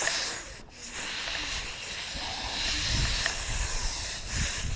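Small angle grinder with an abrasive attachment working on metal: a steady hiss, broken briefly about half a second in.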